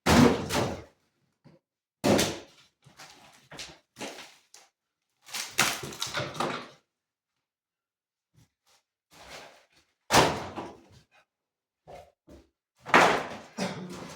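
A series of heavy thuds and knocks at irregular intervals, about five loud ones with smaller knocks between them and short pauses, with one longer cluster of knocking in the middle.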